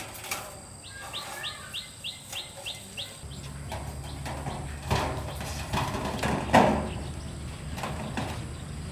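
A bird chirping in a quick series of about eight short rising notes. A low steady hum then sets in, with a few knocks, the loudest one near the end.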